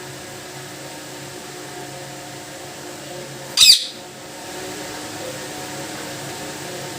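Indian ringneck parrot giving a single short, shrill squawk about three and a half seconds in, over a steady background hum.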